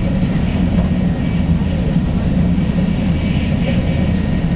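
Steady rumble of a Shinkansen Hikari bullet train running at speed, heard from inside the passenger cabin.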